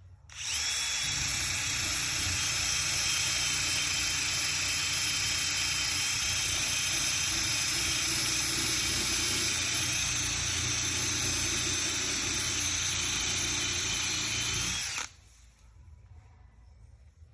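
Handheld power sanding tool running with a steady high whine as it sands old paint off a car hood. It spins back up right at the start and cuts off suddenly about fifteen seconds in.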